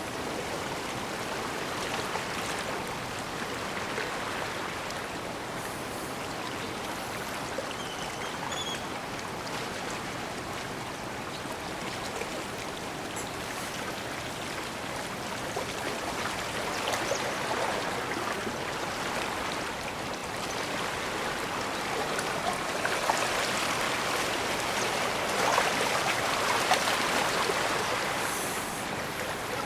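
Small waves of a calm bay lapping and washing against the shore in a continuous wash, swelling louder in the second half.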